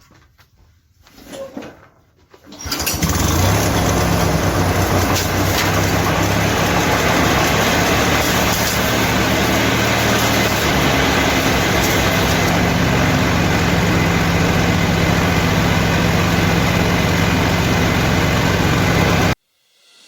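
Montgomery Ward lawn tractor's small engine catching about two and a half seconds in and running steadily at a loud, even speed, then cutting off abruptly near the end.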